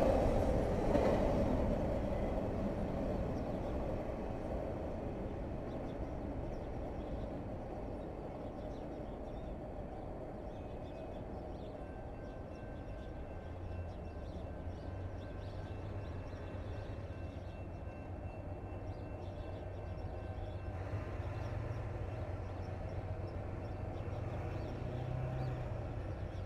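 Train rumble at a street-running grade crossing, loudest at the start and easing off. Then the low engine hum of an approaching diesel locomotive grows louder toward the end.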